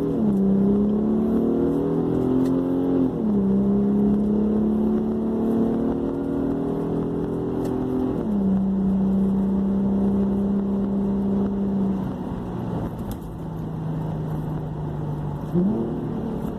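2015 Infiniti Q50 3.7's V6 engine, mufflers deleted, heard from inside the cabin while pulling up through the gears in manual mode. The revs climb and drop at gear changes right at the start, about three seconds in and about eight seconds in, then hold steady, fall lower about twelve seconds in and rise sharply again near the end.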